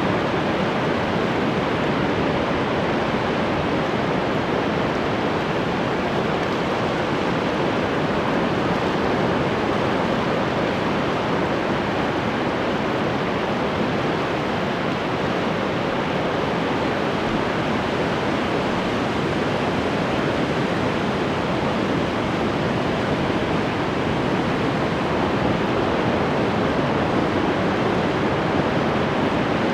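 Ocean surf washing in, an even, steady rush of wave noise.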